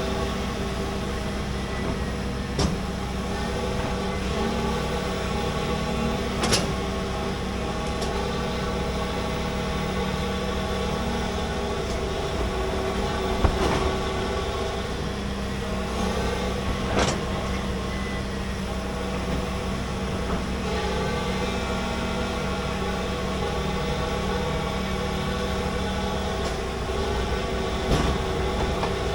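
Large hydraulic excavator's diesel engine running steadily under digging load, its note shifting slightly now and then, with a few sharp clanks.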